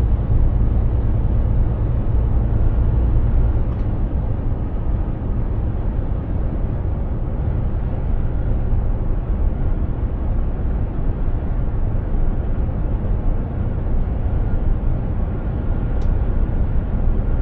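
Mercedes-Benz Actros 2763 truck on the move: a steady low engine and road rumble that eases slightly about four seconds in, with a faint high tone joining near the end.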